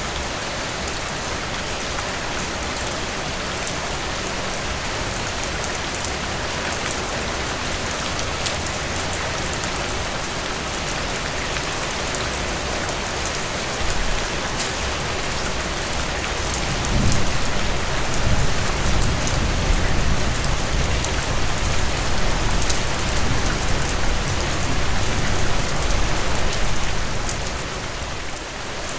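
Steady rainfall, with fine drop patter over an even wash of rain on surfaces. From a little past halfway a louder low rumble rises beneath the rain for about ten seconds, then eases off near the end.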